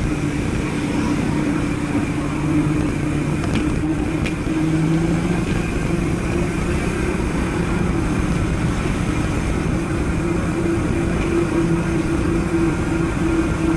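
A motor vehicle engine running at a steady pitch with small shifts in speed, over continuous wind and road noise.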